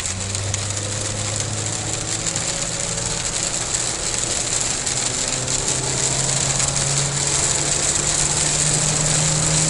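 Nissan Frontier pickup's engine pulling as the truck speeds back up to highway speed, its low hum rising in pitch in steps about five seconds in and again near the end, over a steady hiss of tyres on a wet road.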